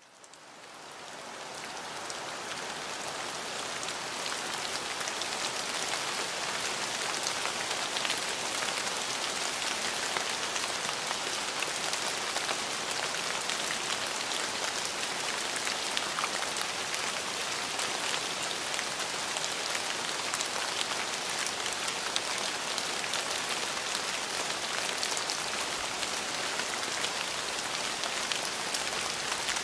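Steady rain falling on a surface, with fine patter of individual drops, fading in over the first few seconds.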